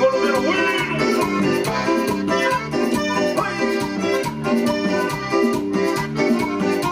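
Live dance-band music: a keyboard-led melody with a reedy, accordion-like sound over a steady, even beat and a repeating bass line.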